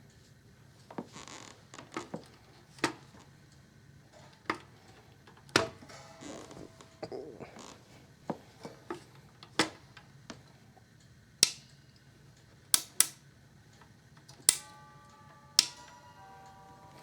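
Sharp clicks and knocks at irregular intervals, about fifteen of them, from a plastic oscillating table fan being handled, over a faint low hum. Near the end, steady tones sound along with the clicks.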